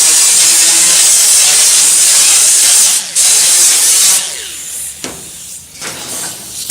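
A loud, steady rushing hiss, as of escaping air. It drops out briefly about three seconds in and stops about four seconds in, leaving a few light knocks.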